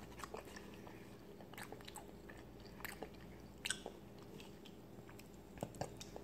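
A person chewing a mouthful of food with the mouth closed: faint, irregular small clicks and smacks.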